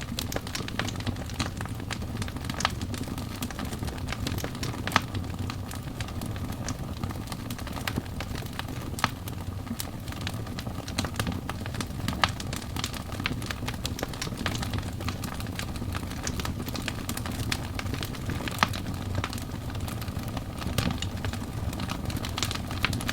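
Wood fire burning steadily, logs crackling with many irregular sharp pops over a low, even rumble of flames.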